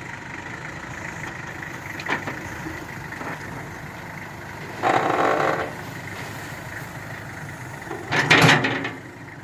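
Tractor loader engine running steadily as it works a pile of wet silage, with two short, louder scraping bursts about five and eight seconds in.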